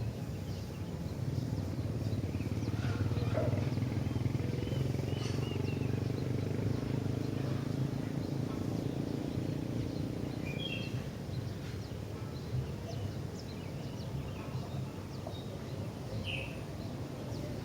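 A bulbul gives a few short, scattered chirps over a steady low rumble, which is strongest through the first half and then eases.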